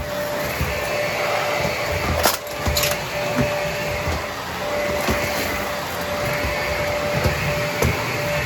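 Vacuum cleaner with a brushroll running steadily, with a constant motor whine over its airflow noise. A few sharp cracks of debris being picked up stand out, two of them close together between two and three seconds in.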